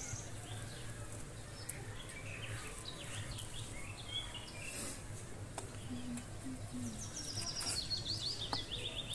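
Small birds chirping, with a quick run of high trilled notes near the end, over a steady background hiss and low hum.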